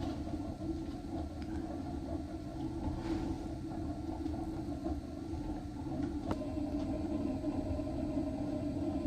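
Homemade waste-oil stove burning with a steady low rumble of its flame. A single click about six seconds in.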